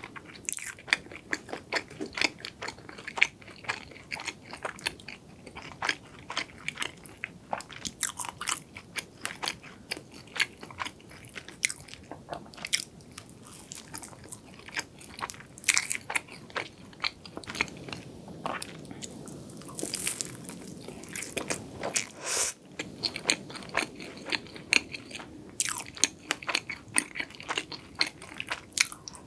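Close-miked biting and chewing of a cream-cheese-topped cronut, its flaky croissant-dough layers giving many small, crisp, irregular crackles.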